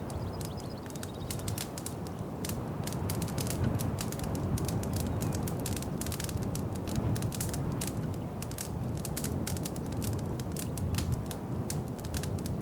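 Wood fire crackling in a fireplace: many irregular sharp snaps and pops over a steady low rumble of burning.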